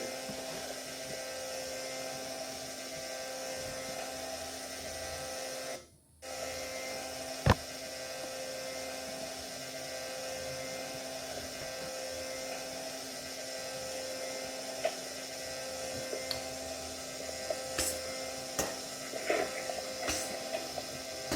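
Steady electrical hum. It drops out briefly about six seconds in, a single sharp click follows at about seven and a half seconds, and a few faint ticks come near the end.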